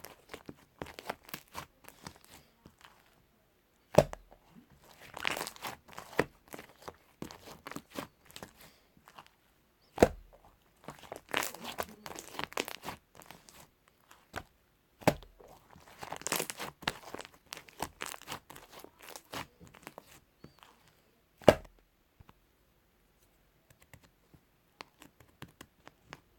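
Slime being worked by hand, giving bursts of crackling and squishing with four loud sharp pops about every five to six seconds. It goes nearly quiet for the last few seconds, with only faint crackles.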